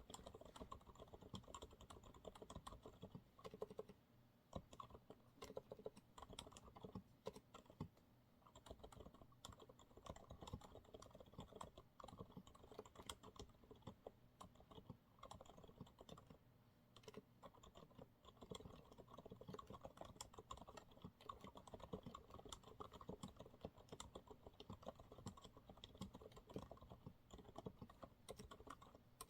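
Continuous soft typing on a Monsgeek MG108W mechanical keyboard with TTC silent brown switches: muted, dampened keystrokes in quick, irregular runs, with a few brief pauses.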